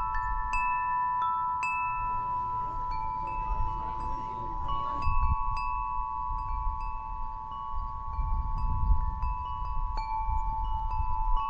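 Chimes ringing: a steady pair of tones near 1 kHz with scattered higher bell-like notes that sound briefly and fade, over a low rumble.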